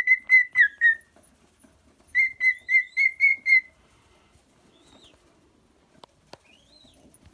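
Cockatiel whistling in two quick runs of short, even notes, about five a second, then a couple of faint rising chirps near the end.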